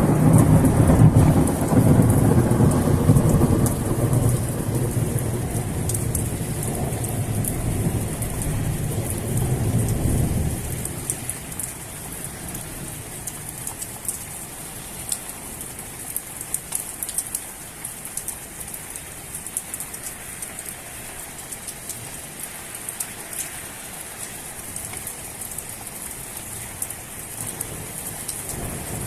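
Thunder rumbling in heavy rain, fading over about ten seconds and stopping abruptly. Then steady rain with scattered clicks of individual drops.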